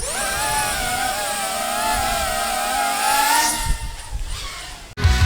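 RC model airplane motor running at a high, wavering pitch. It climbs in pitch at the start, rises a little more about three seconds in, then fades and cuts off near the end.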